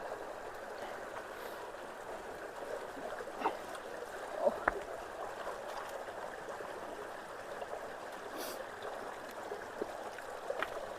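Water running steadily through a culvert, with a couple of light knocks about halfway through.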